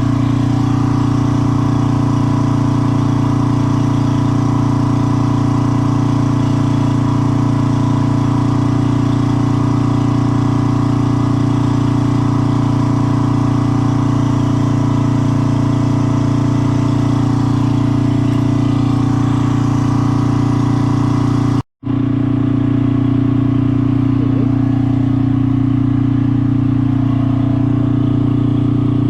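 An engine running steadily at an even pitch, with a brief complete dropout about 22 seconds in.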